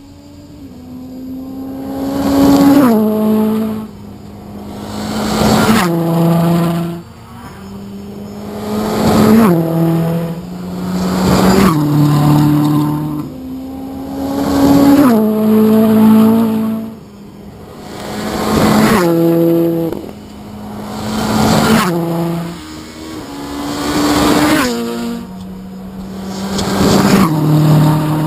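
Rally cars driven hard at high revs, their engine note swelling to a loud peak and dropping away again roughly every two to three seconds, with abrupt steps in pitch.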